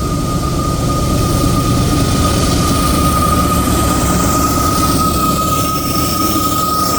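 Loaded grain train rolling slowly past: a steady low rumble of the cars with a high-pitched squeal held throughout, and a second, higher squeal joining near the end.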